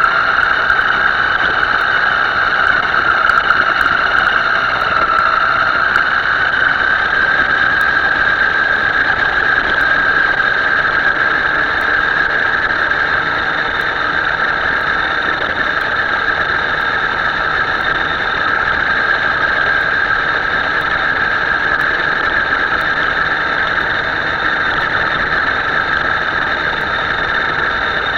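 Himoto radio-controlled boat's motor running at speed with a steady high whine. The pitch creeps up a little over the first several seconds, then holds.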